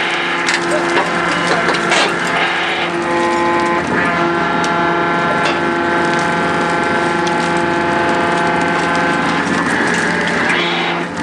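An excavator's engine and hydraulics running steadily to drive a hydraulic pile breaker, with a whine held at a constant pitch. There are several sharp cracks in the first two seconds, typical of the chisels biting into and crushing a concrete pile.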